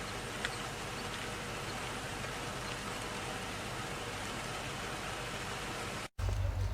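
Steady, even hiss like light rain, with a faint short chirp about half a second in; it cuts off abruptly near the end and gives way to a low hum.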